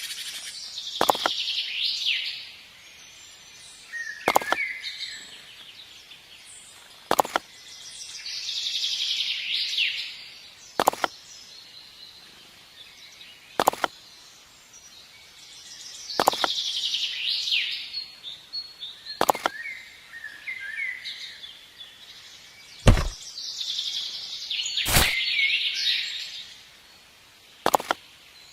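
Birds chirping in high-pitched bursts that come back about every eight seconds, with sharp knocks every few seconds.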